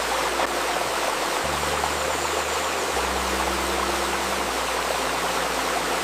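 Shallow stream babbling steadily over stones, with soft sustained low tones of a healing-music drone layered beneath that shift pitch every second and a half or so.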